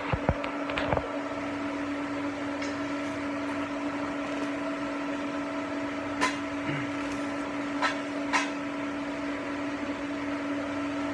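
TIG welding arc running steadily, a buzzing hum over a hiss, with a few faint clicks along the way.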